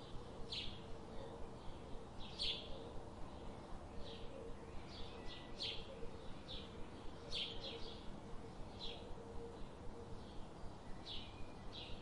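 Birds chirping in open country: short high chirps scattered irregularly, a couple of seconds apart or closer, over a faint steady background hush.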